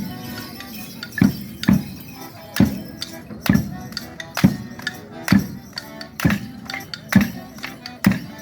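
Morris dance music: a folk tune with a loud, heavy beat a little under once a second and jingling throughout.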